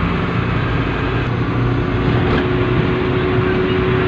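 Steady vehicle noise: a continuous low rumble, with a steady mid-pitched tone joining a little before halfway.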